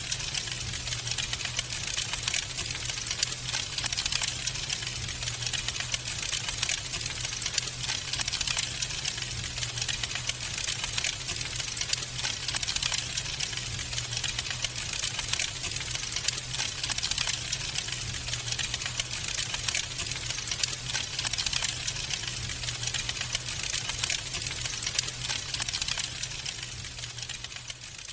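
Wood fire crackling steadily: a dense run of small pops and snaps over a low steady hum, dying away near the end.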